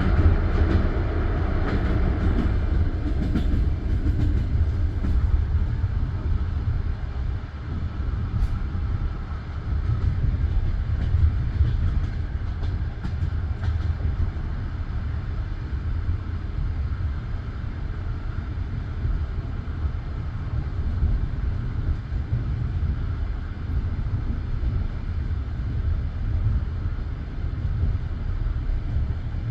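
Passenger train running along the line, heard from inside the carriage: a steady low rumble of the wheels on the rails, a little louder and brighter over the first few seconds.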